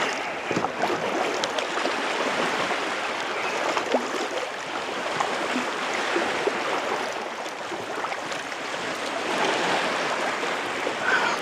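Water sloshing and trickling around a kayak as it is paddled, a steady rushing with small splashes and drips.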